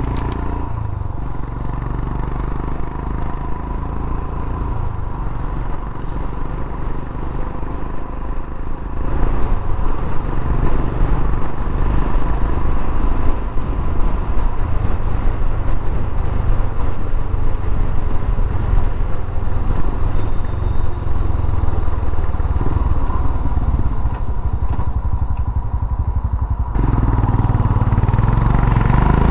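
Royal Enfield Himalayan's single-cylinder engine running as the motorcycle rides along, mixed with wind and road noise; the engine gets louder about nine seconds in.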